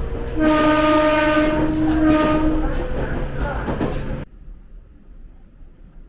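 Train horn sounding for about two and a half seconds over the loud running noise of a passing train on the Jōshin Dentetsu Line, shifting in pitch partway through. The sound cuts off abruptly a little after four seconds in, leaving a faint rumble.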